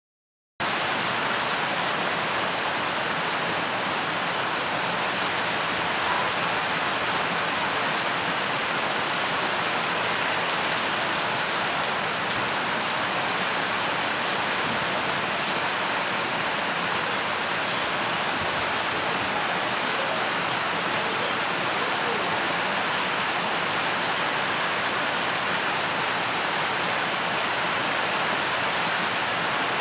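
Heavy rain falling onto standing water on a road surface, a steady, even spatter of countless drops splashing.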